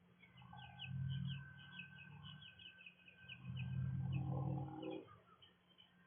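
Small birds chirping in quick series, with one high note held for the first few seconds and a lower call with several tones about four to five seconds in. Two low rumbles, louder than the birds, come about a second in and again from about three and a half to five seconds.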